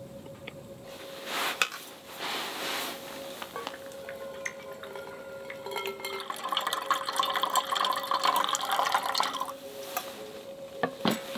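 Liquid being poured into a container for a few seconds, then a couple of light clinks of dishware near the end.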